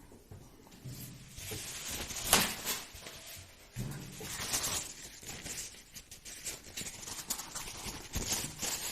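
Hands handling and scraping the small parts of a plastic RC car differential, an irregular rustling with a sharp click about two and a half seconds in.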